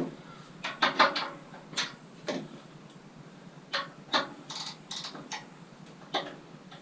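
Hard metal knocks and clinks of scrap pieces and hand tools being handled, about a dozen irregular strikes, some with a brief ring.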